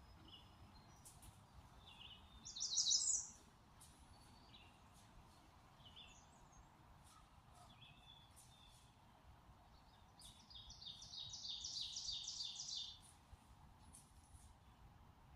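Songbird singing: a short, rapid run of high notes about two and a half seconds in, then a longer series of quick repeated notes from about ten to thirteen seconds. Faint scattered chirps come between, over a faint steady background hiss.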